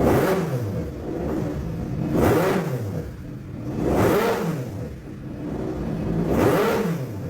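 Turbocharged rotary engine free-revving: four blips, each rising and then falling back, about every two seconds.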